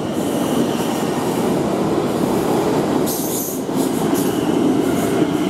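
A South Western Railway Class 450 electric multiple unit pulling out of the station, its carriages rolling past close by with a steady noise of wheels on the rails. A brief higher hiss comes a little after three seconds in.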